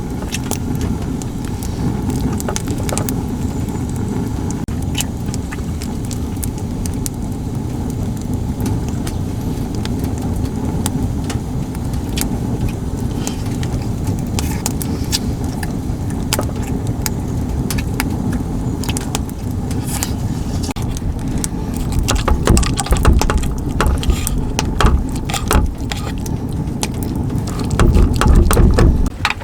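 Motorcycle on the move: a steady engine and road rumble with wind noise, light rattling throughout, and stronger low buffeting swells in the last few seconds.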